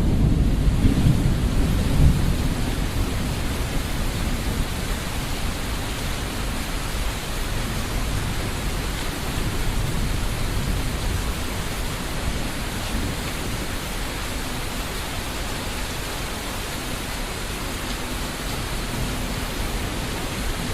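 Steady rain falling. A heavier low rumble in the first couple of seconds eases off, then the rain continues as an even hiss.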